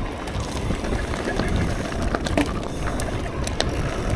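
Mountain bike rolling over a wet, slippery trail: a steady low rumble with scattered clicks and rattles.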